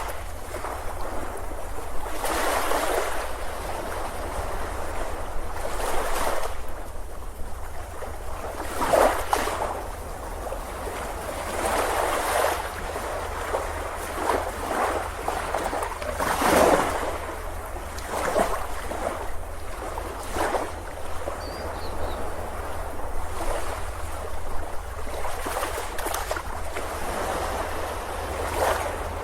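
Ocean waves breaking on a beach, the surf swelling and washing in repeated surges every few seconds.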